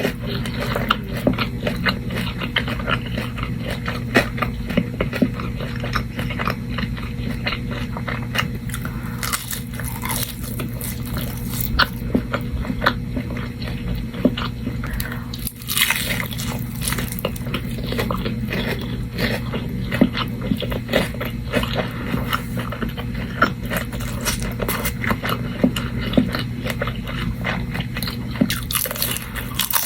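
Close-up eating of crispy fried chicken: repeated crunching bites into the crust and chewing, with irregular sharp crackles throughout. A steady low hum runs underneath.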